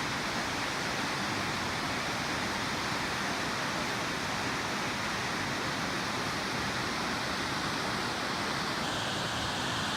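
Rainbow Falls waterfall: a steady, loud rush of falling water.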